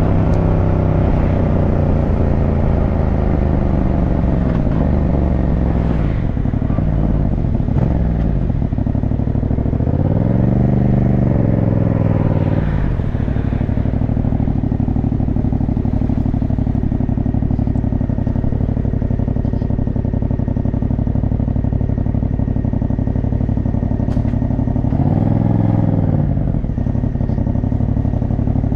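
Motorcycle engine running while riding. The revs ease down over the first few seconds, then hold steady. The pitch rises and falls briefly about ten seconds in, and again about twenty-five seconds in.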